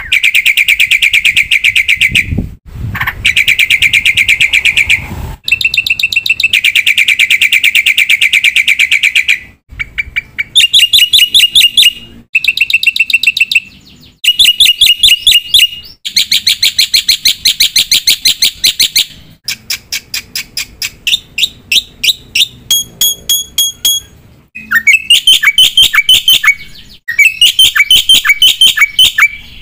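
Black-winged myna (jalak putih) singing loudly in a long run of phrases of very rapid repeated notes and rattling trills, each phrase lasting a second or a few seconds with short breaks between. The song is packed with mimicked phrases (isian).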